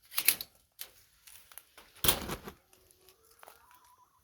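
Short rustling, crunching noises in a chicken coop, the loudest about two seconds in, followed by a few faint, soft, steady-pitched chicken calls near the end.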